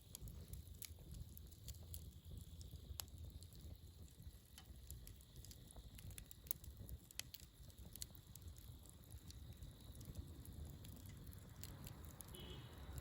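Wood campfire burning quietly, with scattered sharp crackles and pops over a low steady rumble.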